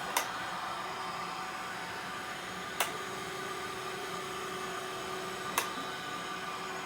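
Ecovacs Winbot window-cleaning robot running, its suction fan giving a steady whirring hum with hiss. Three sharp clicks come at even spacing, about every three seconds.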